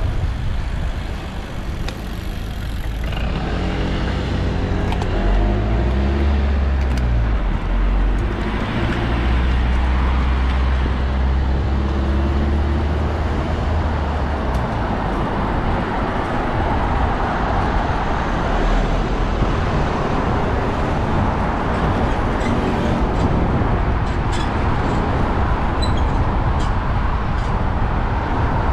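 London street traffic: a nearby motor vehicle's engine runs for several seconds, its pitch shifting, over a steady wash of road and wind noise, which carries on alone after the engine fades.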